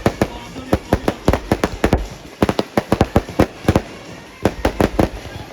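Fireworks going off: rapid, irregular volleys of firecracker bangs, several a second, with short pauses between volleys.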